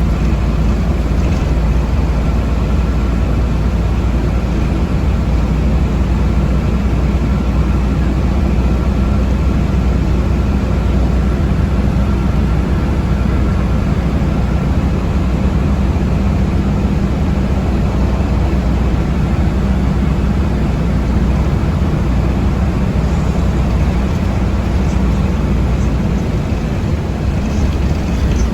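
Passenger-cabin noise of a city transit vehicle in motion: a steady low rumble of motor and road, with a faint steady whine.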